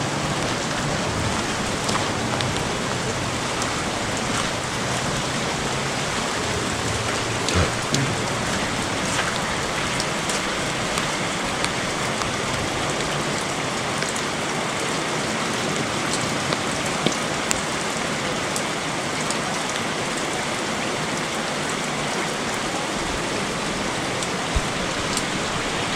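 Heavy storm rain pouring down steadily, with a few sharper drop or splash hits scattered through.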